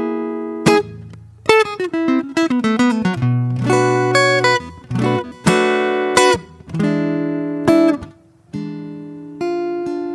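Solo acoustic guitar playing slowly and freely, mixing ringing chords with quick runs of single plucked notes. There is a brief pause about eight seconds in.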